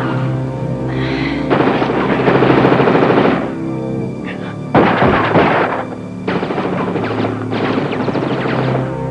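Several long bursts of rapid automatic gunfire, the loudest starting about five seconds in, over a sustained action film score.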